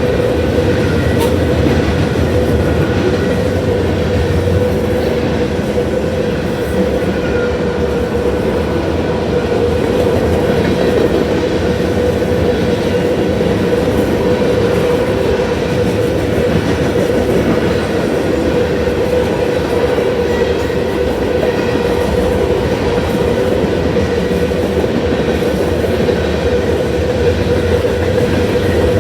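Freight cars of a Union Pacific mixed freight train rolling past on the rails, a loud, steady rumble with a constant ringing tone running through it.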